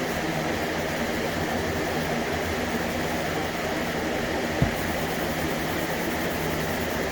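A steady mechanical hum and hiss that does not change, with a single short low thump about four and a half seconds in.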